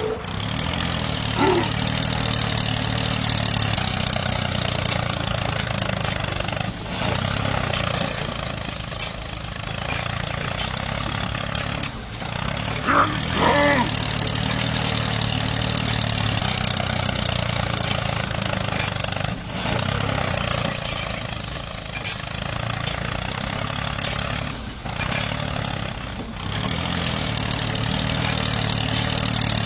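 A tractor's diesel engine running steadily, with short louder high-pitched sounds about a second and a half in and again around 13 seconds in.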